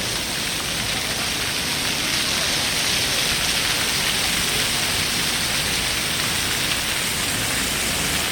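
Large plaza fountain's water jets falling and splashing into the basin: a steady, loud rush of water that grows a little louder about two seconds in.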